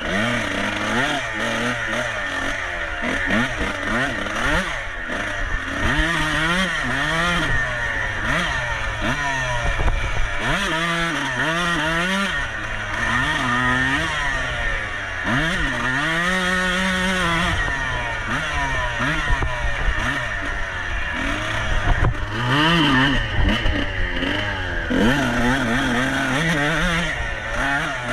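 Off-road motorcycle engine racing, its revs climbing and dropping again and again as the throttle is worked, with clatter over a steady rushing noise.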